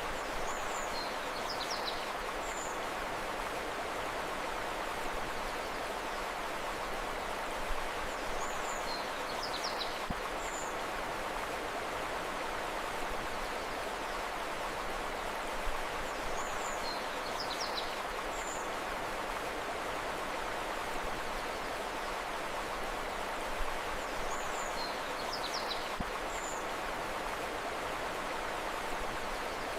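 Steady flow of running river water, with a short high bird call that comes back about every eight seconds, four times in all.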